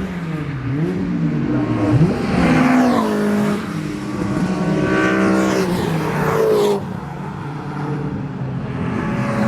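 Racing cars running on a circuit, their engines rising and falling in pitch as they accelerate, change gear and go past. About four and a half seconds in, one engine climbs steadily in pitch, then drops away sharply near seven seconds.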